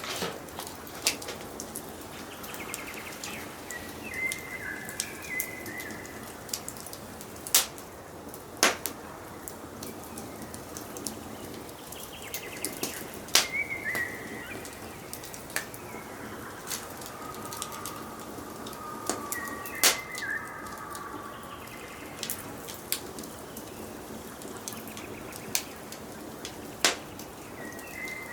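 Wood fire crackling with sharp, irregular pops over a soft hiss of burning, while forest birds sing short, repeated phrases every several seconds.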